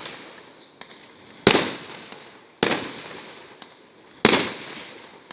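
Aerial fireworks going off: three loud bangs about a second and a half apart, each trailing off slowly and each preceded by a faint pop.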